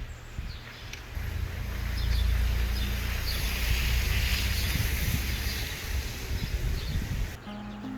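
Wind buffeting the microphone outdoors: a low rumble under a steady hiss that swells about a second in and cuts off abruptly near the end.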